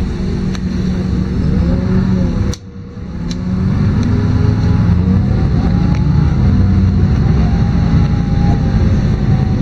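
LiAZ-5292.22 city bus running under way, heard from inside: a steady low engine drone with a gliding whine that rises and falls with speed. About two and a half seconds in the sound drops away briefly, then returns and grows louder as the bus pulls on.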